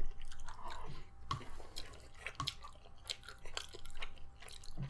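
Close-miked chewing of food, with wet mouth smacks and scattered small clicks.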